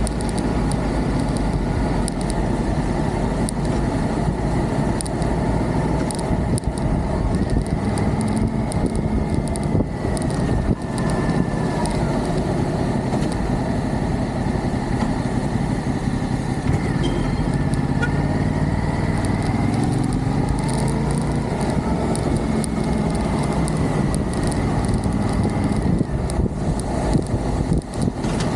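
Motorcycle engine running under way, its pitch rising and falling gently several times as the throttle changes, under steady wind rush.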